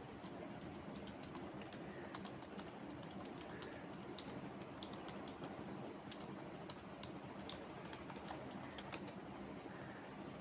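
Computer keyboard typing: irregular key clicks in quick runs and short pauses, over a steady low background hum.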